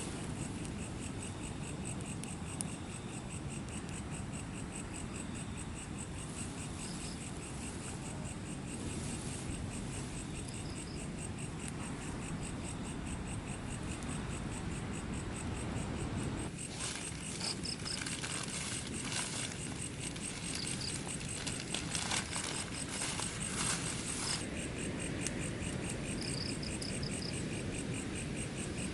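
Crickets chirping outdoors at night. Short pulsed chirps come every few seconds over a steady high insect trill, against a low steady background hiss. Scattered crackling clicks run through the middle stretch.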